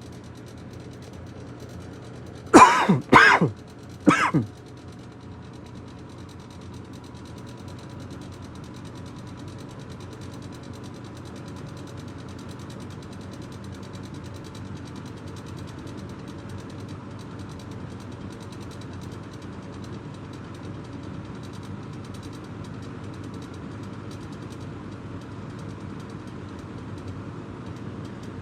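Old Galaxy box fan running on medium, a steady hum that grows slightly louder as the motor warms up and keeps speeding up. About two and a half seconds in, a person coughs three times, the loudest sounds here.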